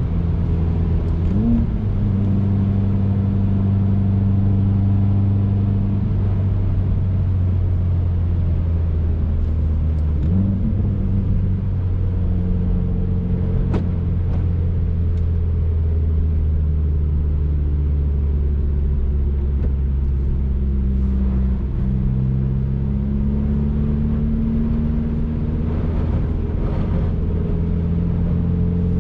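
2019 Subaru WRX's turbocharged flat-four engine and road noise while driving, the engine running at a steady pitch. Its pitch jumps briefly twice, once about a second and a half in and again about ten seconds in, and it rises slowly about three-quarters of the way through as the car accelerates. A single sharp click comes about halfway through.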